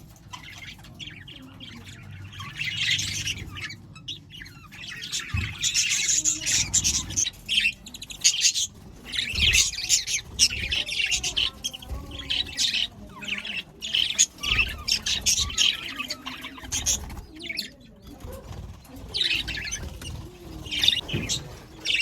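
Budgerigars chattering and chirping, dense overlapping high chirps and squawks coming in irregular bursts, busiest in the middle stretch.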